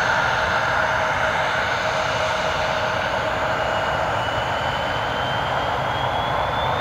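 Bombardier CRJ-900's twin GE CF34 turbofan engines running at high power: a steady jet rush with a high whine that rises slowly in pitch as the engines spool up for takeoff.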